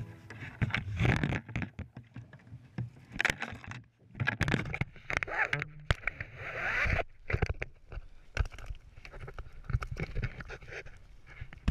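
Irregular knocks, clicks and scrapes of gear being handled on a kayak, with a longer scraping, rustling stretch about six seconds in.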